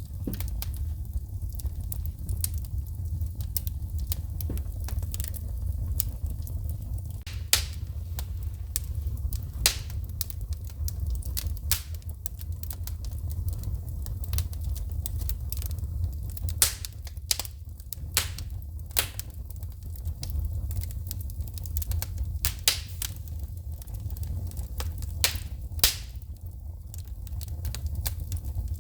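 Wood fire crackling in a fireplace, with irregular sharp snaps and several louder pops from sparks over a steady low rumble.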